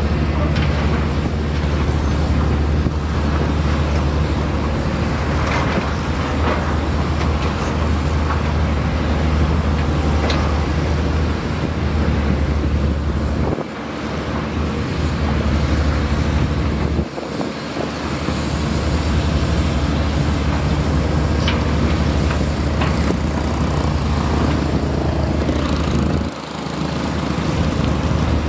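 Diesel engine of heavy earthmoving machinery running steadily with a deep drone, with a few faint clanks of the machine working. The low drone dips briefly three times.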